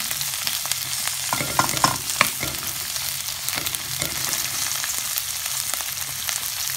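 Sliced onions and garlic sizzling in hot oil in a pan while being stirred with a wooden spoon. A few sharp knocks and scrapes of the spoon against the pan come about one and a half to two and a half seconds in.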